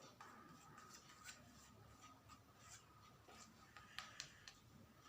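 Near silence with faint scattered taps and scrapes of a paintbrush working acrylic paint on a canvas board, over a faint steady hum.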